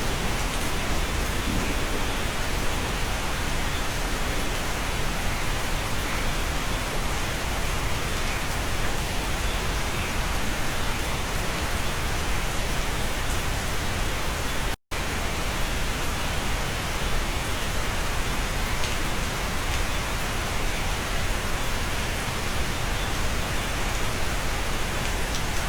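Steady, dense rain heard from inside a cabin, an even hiss with no single drops standing out. About fifteen seconds in, the sound cuts out completely for a split second, then resumes.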